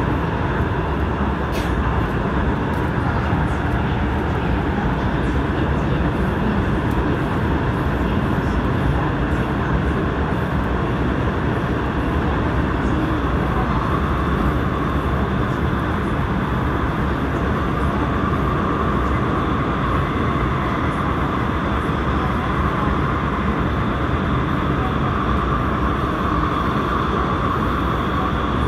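Airport Railroad commuter electric train running steadily at speed, a continuous rumble of wheels on rails. A steady higher hum grows stronger about halfway through.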